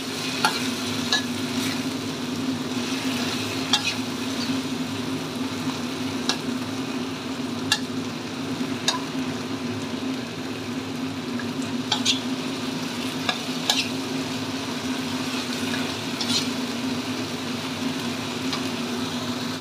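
Tomato and green chili sambal sizzling in a stainless-steel wok while a metal spatula stirs it, scraping and clicking against the pan at irregular moments, over a steady low hum.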